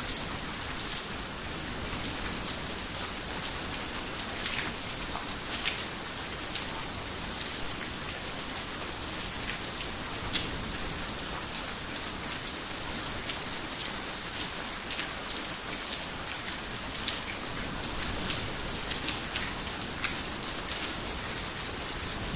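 Heavy rain falling on a garden house: a steady hiss with many scattered, sharp drop hits.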